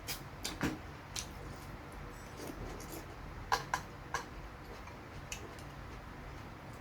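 Close-up eating sounds: chewing fried chicken with scattered small clicks and taps, including three sharper clinks about three and a half to four seconds in.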